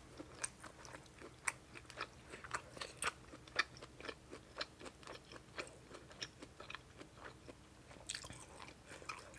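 A person chewing and biting food close to the microphone: quick irregular crunchy, wet clicks, several a second.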